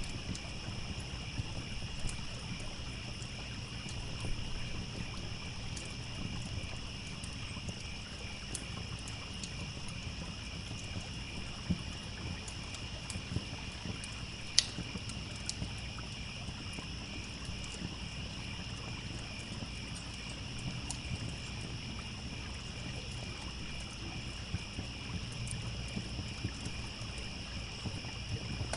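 Campfire crackling with scattered sharp pops, the loudest about halfway through, over a steady chorus of crickets chirring and the low, even rush of a trickling stream.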